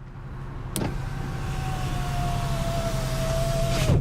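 Power window motor of a 2001 Mercury Cougar running the glass up. A click about a second in, then the motor's whine, sagging slightly in pitch for about three seconds, ends with a thump as the glass seats. A steady low hum runs underneath.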